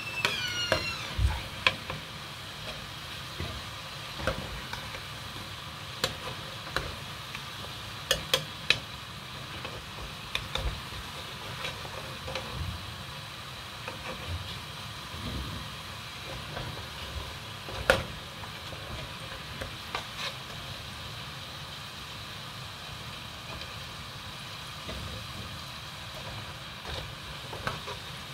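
Pieces frying in a pot of hot oil with a steady sizzle, while a metal slotted spoon stirs them and clicks and scrapes against the pot now and then, with one sharper knock near the middle.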